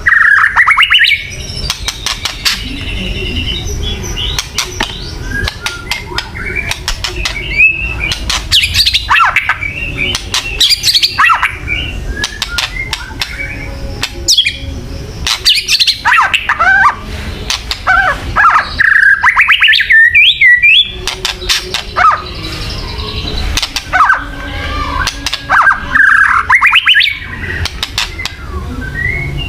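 White-rumped shama (murai batu) giving kretekan: harsh, rapid rattling calls mixed with short whistled notes, in bursts every two to three seconds. This is the aggressive calling used to provoke other shamas into fighting mood.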